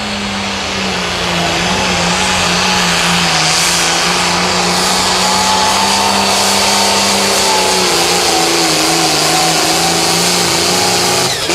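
Limited pro stock pulling tractor's diesel engine held at full throttle while dragging the sled down the track, with a high steady whine over the engine note; the pitch sags slightly under the load late in the pull, and the engine drops off near the end.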